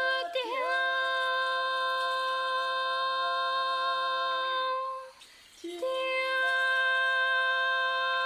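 Unaccompanied voices singing long held notes. They slide in at the start, stop briefly about five seconds in, then come back in on held notes again.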